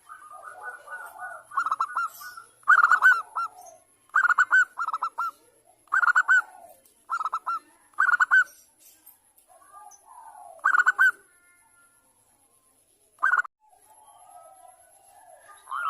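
Zebra dove (perkutut) cooing in short phrases of quick, rolling coo notes, repeated at irregular gaps of one to two seconds, with a longer pause near the end.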